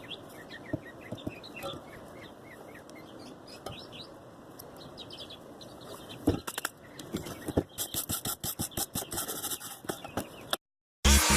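Small birds chirping in the background. In the second half comes a quick run of sharp clicks and knocks from hand work on the go-kart. It cuts off near the end and music starts.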